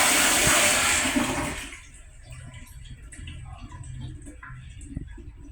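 Public restroom toilet flushing: a loud rush of water that dies away about two seconds in, leaving quieter low room noise with a few small knocks.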